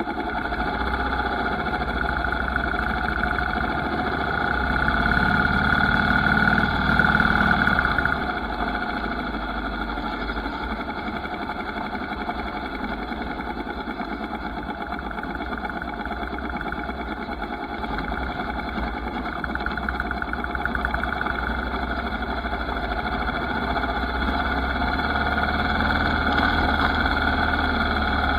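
Motorcycle engine running continuously. It grows louder for a few seconds starting about four seconds in, drops back, then slowly builds again toward the end.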